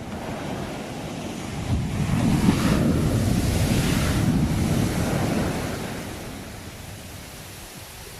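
Sea waves: one wave breaks and washes in, swelling about two seconds in and dying away after about five and a half seconds.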